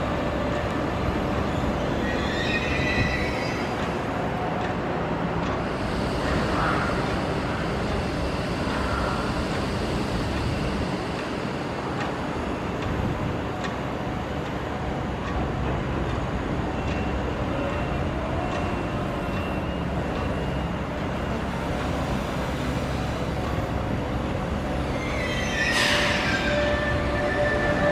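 Heavy machinery working: the diesel engine and hydraulics of a CAT 320 tracked excavator run steadily as it loads a tractor's dumper trailer, with brief high metallic squeals about two seconds in and again near the end.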